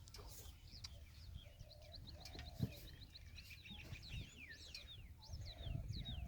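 Small birds chirping faintly in quick series of short, high, falling notes over a low steady rumble, with a single sharp knock about two and a half seconds in.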